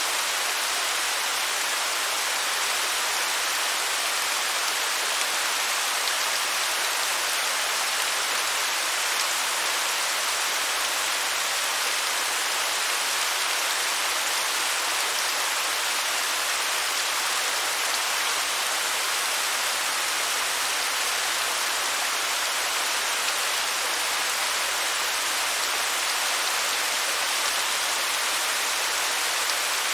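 Waterfall: a steady, even rush of falling water, hissy, with little low rumble.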